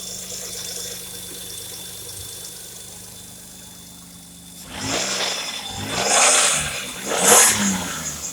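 2005 Kia Sportage's 2.7-litre V6 engine idling steadily, then revved three times in quick blips that rise and fall, the last the loudest. It is an engine test, and the engine is described as tested good.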